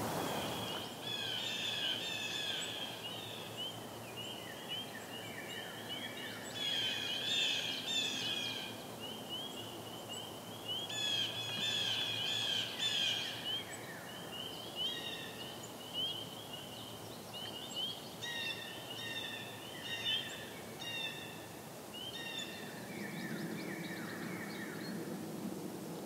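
Songbirds singing: runs of quick, repeated chirping notes in phrases a few seconds long, one after another, over a faint steady background noise.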